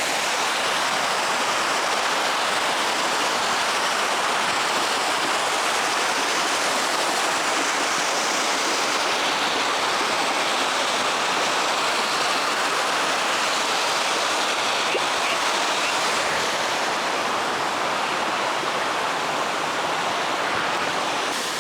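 Waterfall heard from its base: a steady, unbroken rush of falling water.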